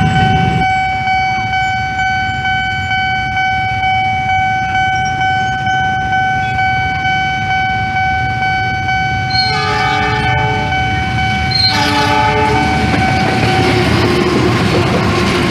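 A level-crossing warning bell rings in a steady, pulsing tone. About halfway through, the double-headed locomotives of an approaching passenger train sound two chord horn blasts, and the rumble of the train passing rises near the end.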